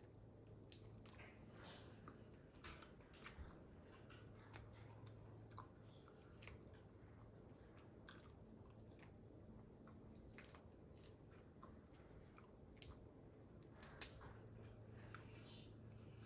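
Faint chewing with scattered small cracks and clicks as shell-on prawns are peeled and eaten by hand, the sharpest crack about fourteen seconds in.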